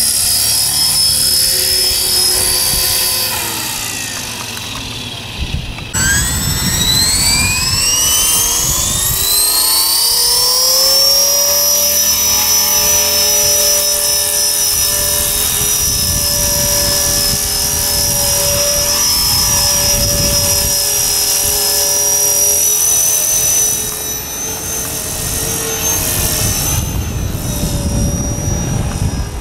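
E-flite Blade 400 electric RC helicopter's motor and rotor whining: the pitch sags a few seconds in, then climbs steadily from about six seconds in and holds at a high steady whine, shifting slightly near the end. Wind rumbles on the microphone underneath.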